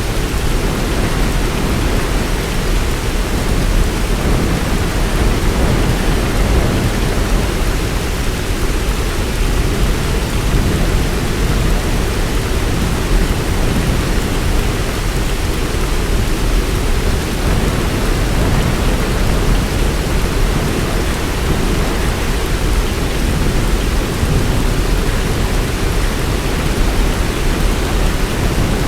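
Heavy rain falling steadily in a dense, even wash, with a deep low rumble under it.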